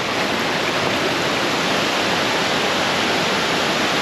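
Rain-swollen creek rushing over falls: a steady, even wash of water noise, the creek running high after heavy rain.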